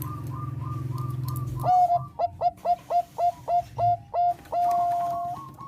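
Zebra dove (Thai 'perkutut bangkok' strain) cooing: a loud series of about nine short clipped coos at a quick even pace begins nearly two seconds in and ends in one long held coo. Before it, a low hum and a faint run of quick repeated notes, which cut off as the coos start.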